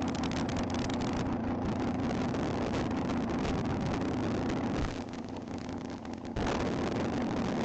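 Nostalgia front-engine dragster's engine running, heard as a steady drone with a constant low tone. It drops lower for about a second and a half past the middle, then comes back abruptly.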